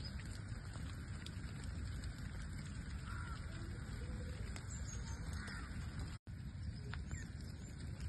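Steady rain falling in a garden, with faint bird chirps now and then above it. The sound cuts out for an instant about six seconds in.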